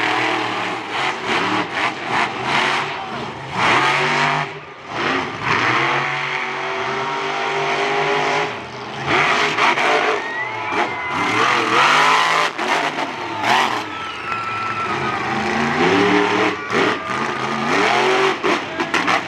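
Monster truck engines revving hard during a race, pitch climbing and falling again and again as the drivers work the throttle, with a brief drop in level about four and a half seconds in.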